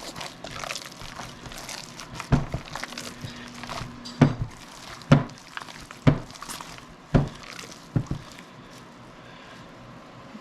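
Hands mixing and kneading wet ground sausage meat with cheese in a bowl. Soft squishing at first, then a series of dull thuds about once a second as the mix is slapped and pressed down.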